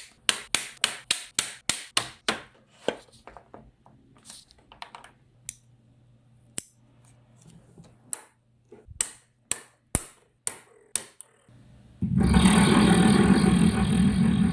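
Neodymium magnets snapping together in a fast run of sharp clicks, about four or five a second, that thins out to scattered single clicks. About twelve seconds in, a loud continuous vibrating buzz starts abruptly.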